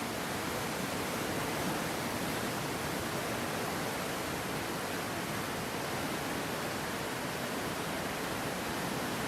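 Swollen, flooding river rushing: a steady, even roar of water with no breaks.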